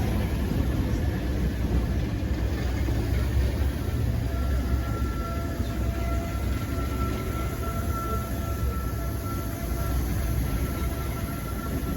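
Diesel locomotive running, a steady low engine rumble, with a faint steady whine coming in about four seconds in.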